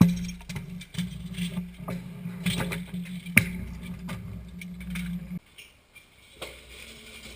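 Scooter wheels rolling on hard ground with a steady hum, broken by sharp clacks and knocks from the deck and bars. The rolling stops suddenly about five seconds in, and a few more knocks follow.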